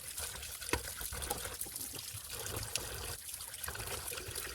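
Water trickling and pouring steadily, with a few light clicks and knocks.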